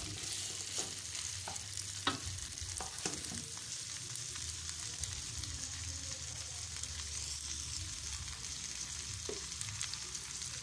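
Chicken feet in chili spice paste sizzling as they stir-fry in a metal wok, a steady hiss. A spatula scrapes and knocks against the pan a few times in the first few seconds and once more near the end.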